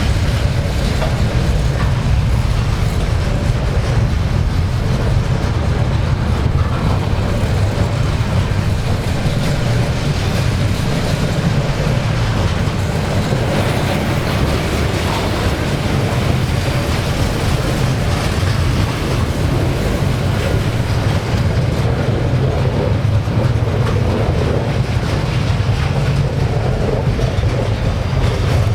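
Freight train running on the rails, a steady, loud low noise with no breaks.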